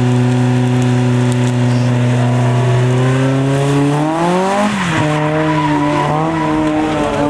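Toyota AE86 Corolla's 4A-GE four-cylinder engine held at steady high revs while the car spins donuts, rear tyres spinning and squealing. About four seconds in the revs climb, dip briefly, then hold higher.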